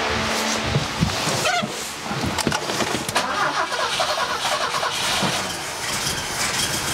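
1968 BMW 1602's four-cylinder engine on a newly fitted Weber carburetor, running unevenly just after being started, with a couple of sharp pops about a second in. The owner takes the lingering backfiring to point to worn ignition parts and timing.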